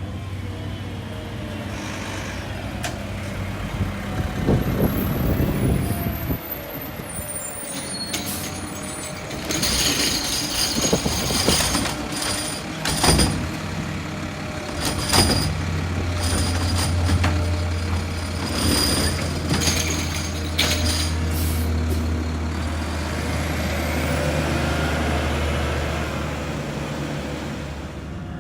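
Garbage truck with its diesel engine running, and several sharp hisses between about ten and twenty seconds in. The low engine drone grows stronger from about sixteen seconds in.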